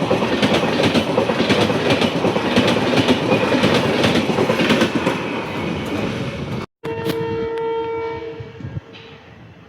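Train rolling past, with a steady clickety-clack of wheels over rail joints. After an abrupt cut, an Indian Railways locomotive horn sounds one steady blast of about two seconds, then fades.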